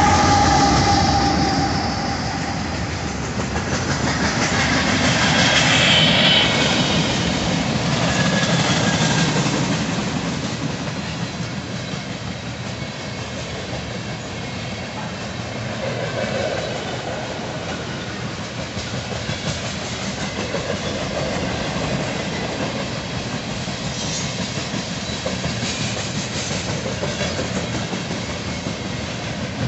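Union Pacific freight train passing close by: the trailing GE ES44AC diesel locomotive's engine goes past first and is loudest, then a long line of freight cars rolls by with a steady clatter of wheels over the rail joints.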